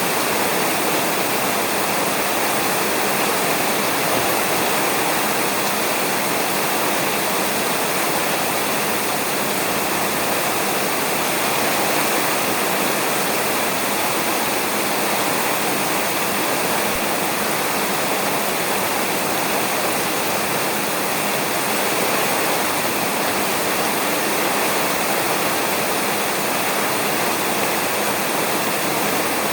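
Steady rain falling on a roof, a dense, even hiss.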